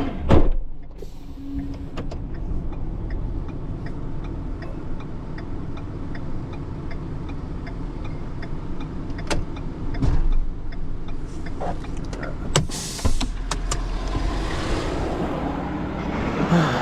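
Tow truck engine running steadily while the truck is maneuvered, with a knock right at the start, a few sharp clicks, and a brief hiss about 13 seconds in.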